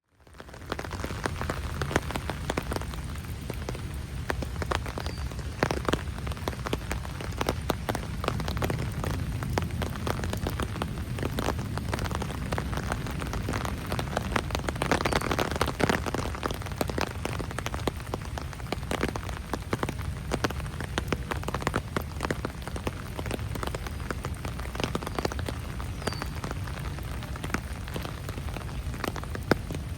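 Rain falling, with many separate drops hitting close by over a steady low rumble; the sound fades in at the very start.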